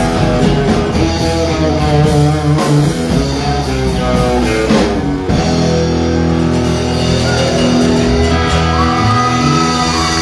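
Live outlaw country band playing an instrumental passage: guitar to the fore over bass and drums, with bent notes near the end.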